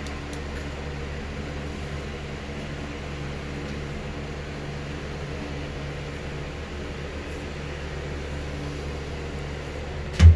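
Steady mechanical hum of a motor-driven machine running at an even speed, with a low drone and several steady tones. A loud knock comes right at the end.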